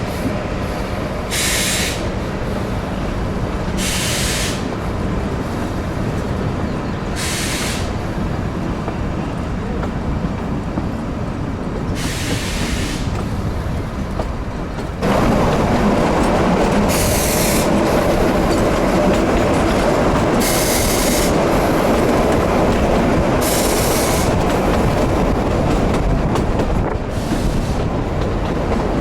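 Narrow-gauge train running on its rails, heard from aboard: a steady rumble with short hissing squeals every few seconds. About halfway through the running noise jumps suddenly louder and stays up.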